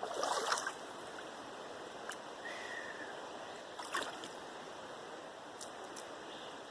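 River water flowing steadily, with a burst of splashing in the first second and a few short splashes or drips later, about four seconds in and near the end, from hair being rinsed in the river.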